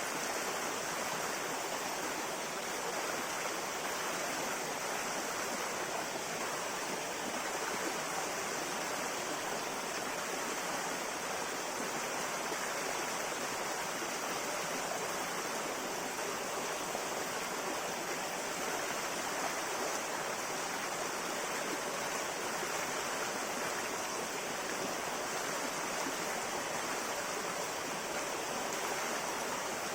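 River water flowing steadily over stones, an even rushing and babbling without pauses.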